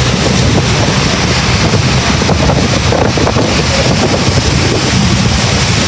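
Tour boat's engine running steadily under way, with wind buffeting the microphone.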